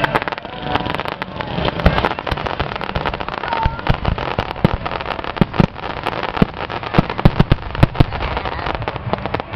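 Fireworks going off in a dense barrage: rapid, irregular bangs of shells bursting over a continuous crackle, with the heaviest booms about seven to eight seconds in.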